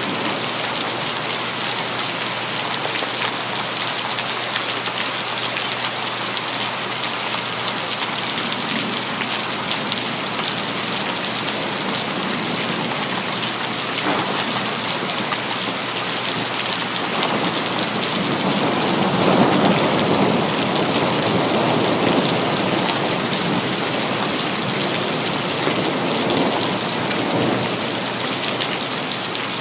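Steady rain falling. Thunder rumbles in about two-thirds of the way through, swelling to its loudest just after and fading out a few seconds before the end.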